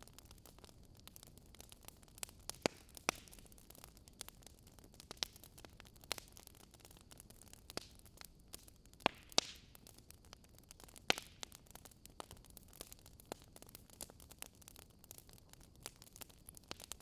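Wood fire crackling in a fireplace: irregular sharp pops and snaps over a faint steady hiss, with a few louder pops about three, nine and eleven seconds in.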